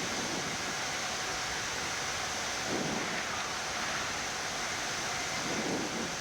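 Steady rushing hiss of a Boeing 787 flight deck on the ground, the air-conditioning and engine noise heard in the cockpit. Two brief low swells come through, about three seconds in and again near the end.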